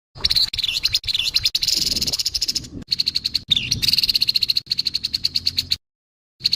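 Grey-headed babbler giving harsh, fast rattling calls in runs. It stops abruptly near the end and starts again.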